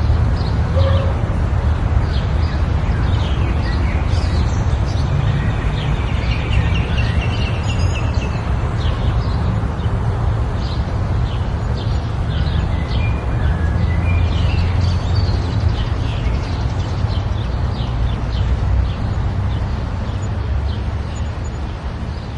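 Forest birds chirping in many short, repeated calls over a loud, steady low rumble.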